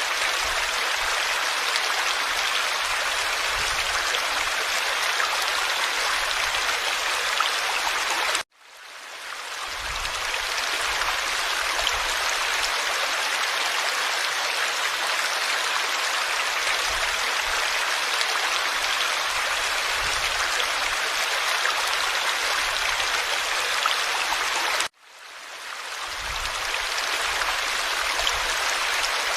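Forest stream flowing steadily. The sound cuts out abruptly twice and fades back in over about a second each time.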